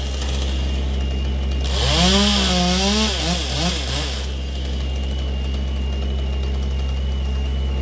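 Chainsaw revving up and down and cutting wood for about two and a half seconds, from about two seconds in, over the steady low drone of another engine that runs throughout.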